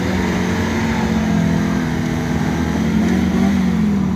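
Engine of an off-road vehicle running steadily under load, its pitch holding roughly level.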